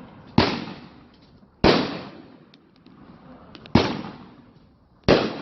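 Consumer aerial fireworks bursting: four loud booms about one to two seconds apart, each fading out with an echo, with a few faint crackles between them.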